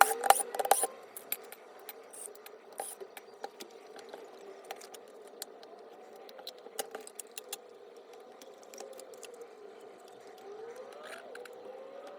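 Tools and small parts clicking and clinking while a Makita JR3070CT reciprocating saw is taken apart: a quick run of sharp clicks in the first second, then scattered light clicks and taps.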